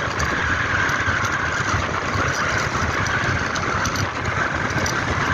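Steady engine and road noise from a moving vehicle, a continuous low rumble with a hiss on top.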